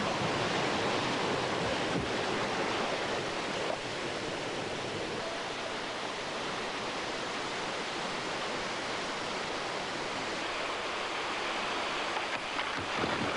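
Steady rush of a large waterfall: an even noise of falling water with no break.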